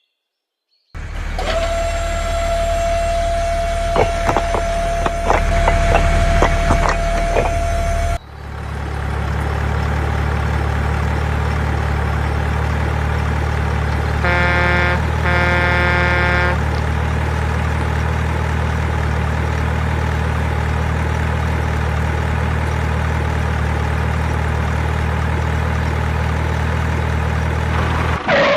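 A vehicle engine running steadily. For the first several seconds it comes with a steady whine and a run of clicks, which cut off suddenly about eight seconds in. The engine drone then carries on, with two short horn honks about halfway through.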